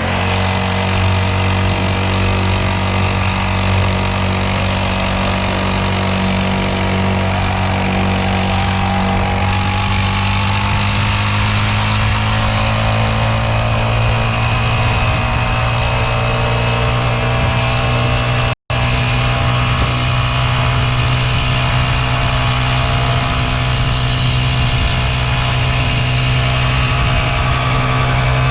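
Small kids' dirt bike engine running steadily and loudly, with a few upper tones rising slightly about ten seconds in. The sound drops out for an instant about two-thirds of the way through.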